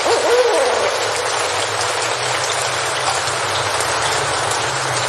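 Steady rain falling in a forest, an even hiss throughout. In the first second a few short calls rise and fall in pitch, then fade out.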